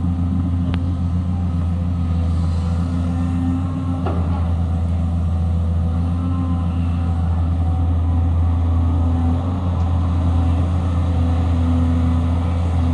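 Cat 320 excavator's diesel engine running with a steady, loud low drone.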